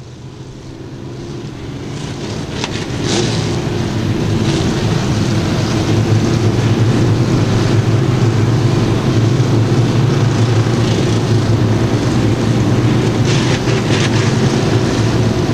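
A pack of IMCA stock car V8 engines running at low, steady revs at caution pace as the field lines up for a restart. The sound grows louder over the first five seconds as the cars come closer, then holds steady.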